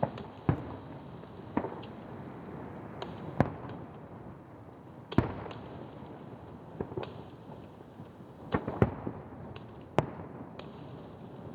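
Aerial fireworks shells bursting over the sea: a series of sharp bangs about one to two seconds apart, each trailing off in a brief rumble, with the loudest around the middle and a close pair about nine seconds in.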